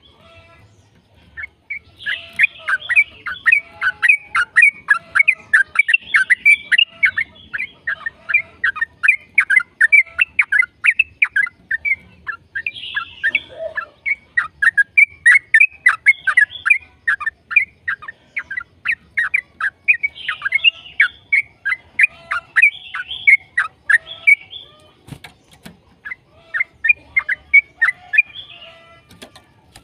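Yellow-vented bulbul (trucukan) singing a long, rapid chattering series of short notes, about four or five a second, broken by a couple of brief pauses.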